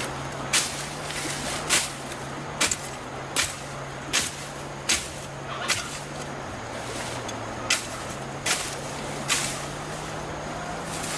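A run of short, sharp strikes or swishes, roughly one every three-quarters of a second with a brief pause midway, over a steady low hum.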